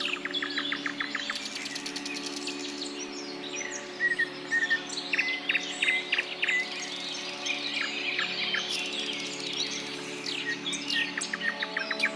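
A chorus of several birds chirping and calling, with a quick run of repeated notes near the start and a few short flat whistled notes in the middle. A steady low hum runs underneath.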